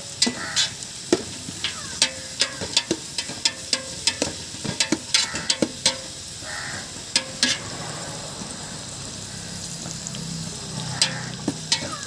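A spatula knocking and scraping against a pan as chicken masala is stirred while it fries, over a steady sizzle. The strokes come quickly for the first six seconds or so, then thin out to a couple near the end.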